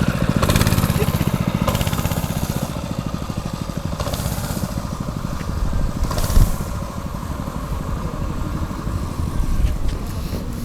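Small gasoline engine of a stand-up motor scooter running, its rapid firing pulses loudest in the first couple of seconds and a little quieter after. A brief thump about six seconds in.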